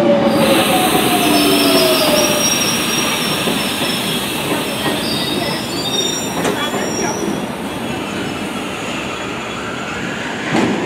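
London Underground battery-electric locomotive and its train of wagons rolling slowly past: a steady rumble of wheels on rail with thin, high-pitched wheel squeals in the first half, slowly getting quieter, and a short clatter near the end.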